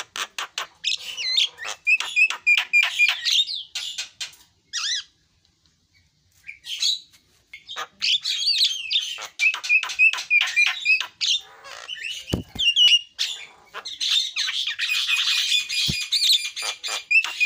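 Javan myna (jalak kebo) singing: rapid runs of sharp clicks and chattering notes mixed with short whistles, broken by a pause of about a second and a half around five seconds in.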